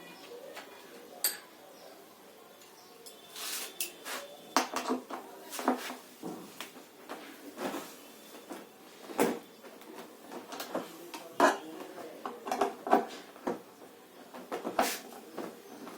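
Irregular clinks, knocks and scrapes of tools and metal parts of a top-load washing machine's gearbox mechanism being handled.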